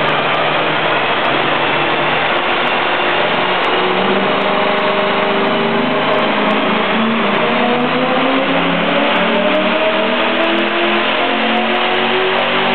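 Worked 5.7-litre Holden Statesman V8 running hard on a chassis dyno, loud throughout. Its pitch climbs steadily from about a third of the way in, the engine pulling up through the revs under load.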